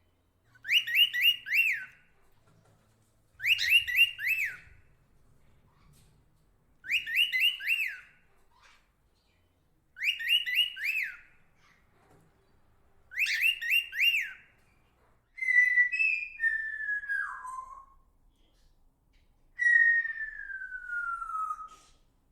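Birdsong: a bird repeats a short phrase of three or four quick whistled notes about every three seconds, six times over. Near the end come two longer whistles that fall in pitch, the second a long smooth glide downward.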